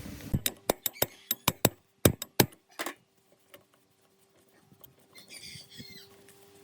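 About a dozen sharp taps or knocks in quick, uneven succession, stopping about three seconds in, then a brief high chirping a couple of seconds later over a faint steady hum.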